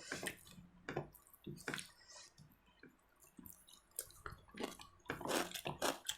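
Close-up eating sounds: wet chewing, lip smacks and small irregular clicks of food in the mouth, with a denser cluster about five seconds in.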